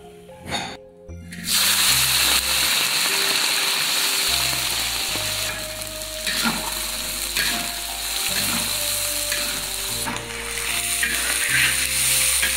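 Small river shrimp sizzling in hot oil in a wok and stirred with a spatula, starting loudly about a second and a half in.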